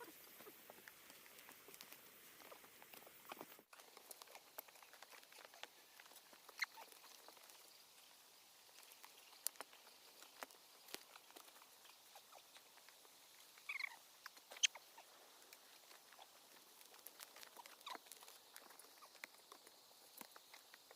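Near silence with sparse, faint ticks and taps scattered throughout, and a short chirp about 14 seconds in.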